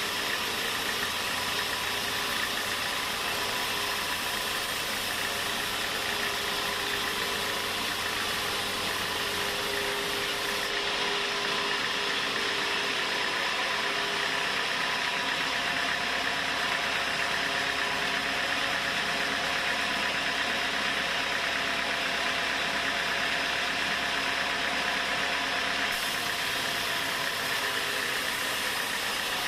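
Sawmill machinery running with a steady, continuous mechanical noise, its character shifting slightly about a third of the way in and again near the end.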